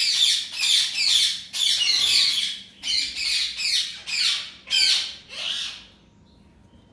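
Parrot squawking over and over, about two loud calls a second, stopping about six seconds in.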